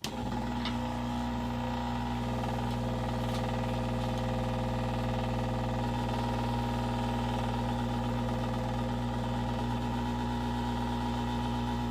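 Electric heat gun running: a steady motor hum with blowing air that switches on suddenly at the start and holds unchanged.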